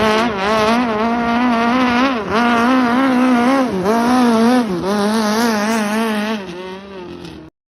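Racing boat's Toyota car engine running at high revs, its pitch wavering quickly up and down. It fades and then cuts off suddenly near the end.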